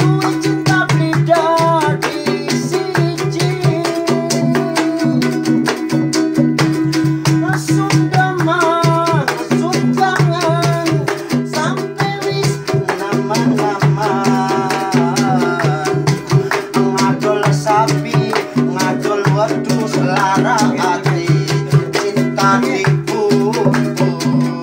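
Instrumental break of a tarling song: plucked guitar with a steady bass rhythm and a melody line that bends and slides in pitch.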